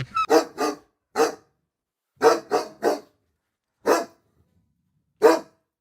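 A dog barking: about nine short, sharp barks in irregular groups, with silent gaps between them.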